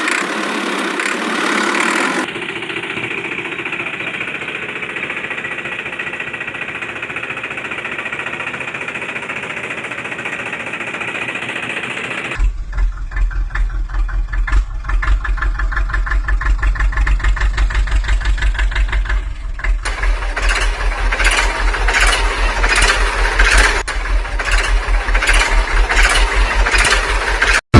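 Tractor engine running. It changes in sound about two seconds in, and again about halfway through, when it becomes a heavy, fast, even chugging with a strong low pulse.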